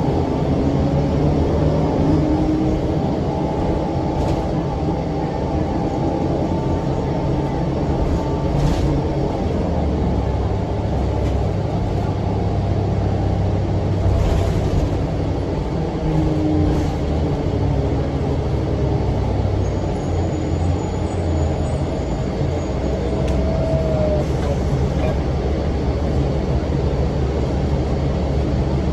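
A 2006 NABI 40-foot low-floor transit bus under way, heard from inside: its Cummins ISM diesel engine and engine cooling fan give a steady low rumble. A few short rising whines and some light clicks sit on top of the rumble.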